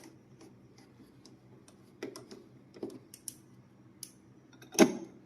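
Scattered light clicks and taps, with one louder knock near the end.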